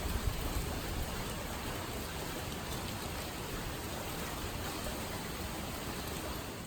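Steady hiss of heavy typhoon rain, with a little low rumble from wind early on, fading out at the very end.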